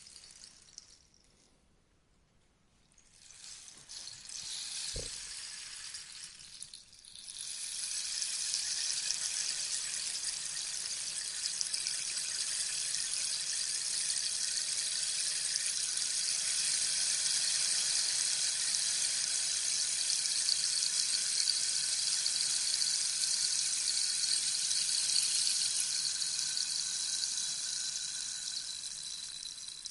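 Rainstick tipped over, its pellets falling through the tube with a rain-like hiss: a short run starting about three seconds in, a brief pause, then one long steady cascade that fades out near the end.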